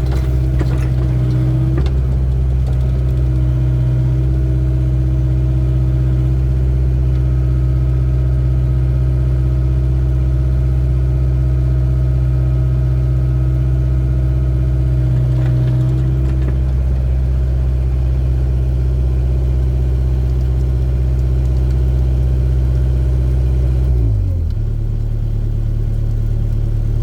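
Hydraulic excavator's diesel engine running steadily at working speed, then dropping to a lower engine speed near the end.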